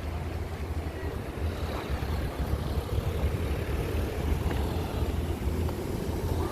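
A vehicle's steady low rumble, growing gradually louder.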